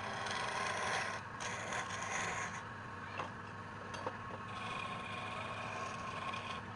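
Wood lathe running while a turning tool scrapes and cuts against the spinning wood, with two short ticks near the middle.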